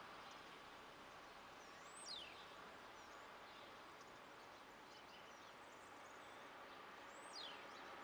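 A bird gives a high whistled call that falls steeply in pitch, twice, about two seconds in and near the end, with a few fainter chirps between, over a faint steady hiss of background noise.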